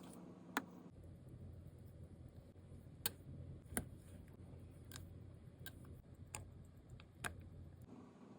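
Small metal watchmaker's tools clicking and tapping on the parts of a Rolex cal. 3135 watch movement during assembly: about seven sharp, irregular clicks over a faint low hum.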